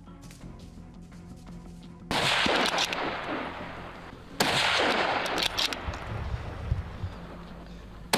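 Two rifle shots about two and a half seconds apart, each followed by a long rolling echo. Background music plays before the first shot.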